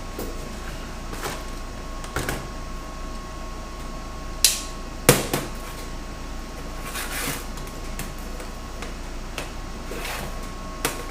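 Several sharp metal clanks and knocks, the loudest two about four and a half and five seconds in, over a steady machine hum with a faint whine, as steel parts and welding gear are handled at the bench.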